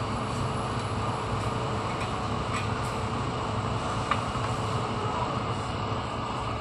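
A steady low mechanical hum with a broad noise over it and a few faint clicks, the sharpest about four seconds in.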